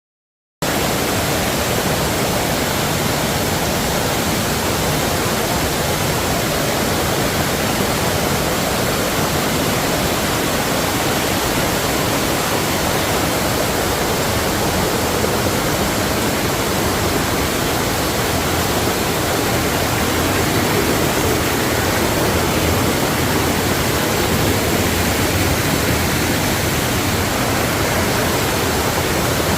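Steady, loud rush of a waterfall's falling water, cutting in abruptly after half a second of dead silence.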